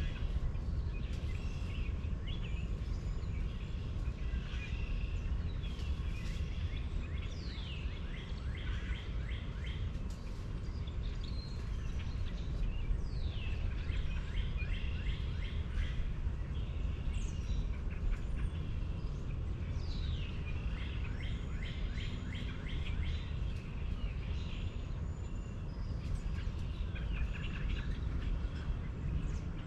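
Birds chirping and calling, with repeated quick falling whistles, over a steady low rumble.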